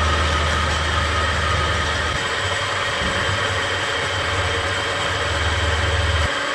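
Electric power tool motor running steadily with a low hum and a high whine, during cutting, milling or sanding of steel. The low hum drops off a little before the end while the whine carries on.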